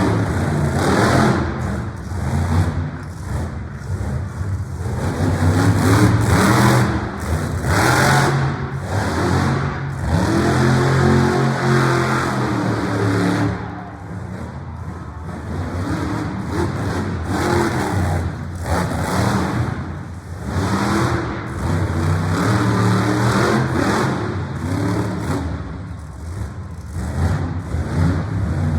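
Monster truck engine revving hard and dropping back again and again, with louder throttle surges every second or two.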